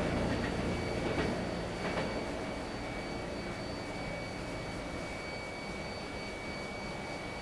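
Shinkansen bullet train pulling away over station points, its rumble slowly fading, with a few sharp clicks of wheels over rail joints in the first couple of seconds.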